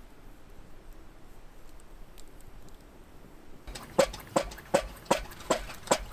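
Faint quiet background, then from about three and a half seconds in a steady run of sharp knocks, about two and a half a second, each with a short ring.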